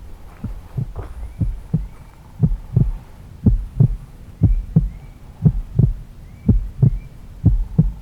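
Footsteps while walking: dull, low thuds in a steady walking rhythm, about two steps a second.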